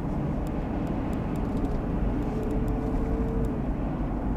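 A car driving, heard from inside the cabin: a steady low rumble of road and wind noise, with a faint steady hum for about a second in the middle.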